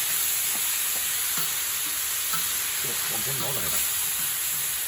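Pork belly frying on an iron griddle, a steady sizzling hiss. Faint voices come in briefly about three seconds in.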